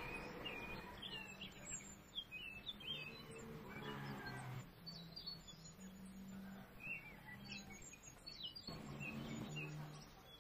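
Faint birdsong in the background: many short, rising and falling chirps scattered through, over a low background hum.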